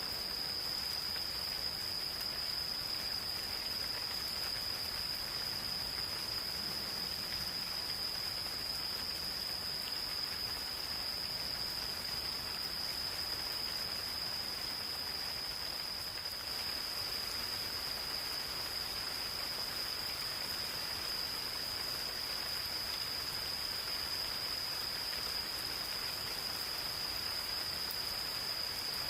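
Gentle rain falling in a forest, an even patter with no single drops standing out, under a continuous high-pitched insect chorus held on one steady pitch.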